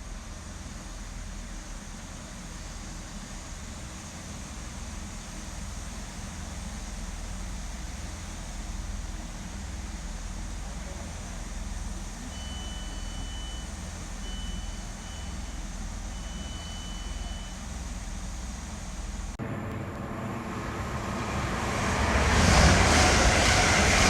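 Diesel multiple unit idling at the platform with a steady low throb, and a short run of high-pitched beeps about halfway through. After a cut, an electric train approaches and rushes through, growing loud near the end.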